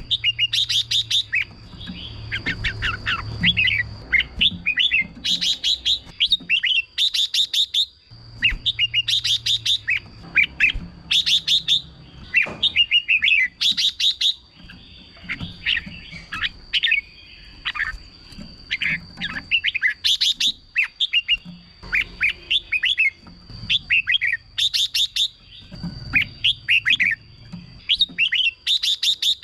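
Red-whiskered bulbul singing: short, loud phrases of rapid chirps and warbled notes, repeated about every couple of seconds. A faint steady high-pitched tone runs underneath.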